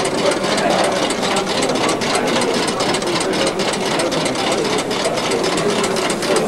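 A small engine running steadily with an even, rapid mechanical beat.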